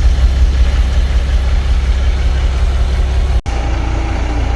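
International DT466 inline-six diesel in a 1982 S1900 dump truck running with a steady, heavy low rumble. Near the end the sound cuts out for an instant and resumes a little quieter with a faint steady whine over the engine.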